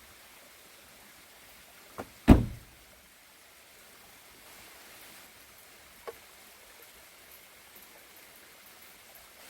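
A light click, then a heavy thump with a short low ring-out about two seconds in, and a faint click a few seconds later, over a steady quiet hiss.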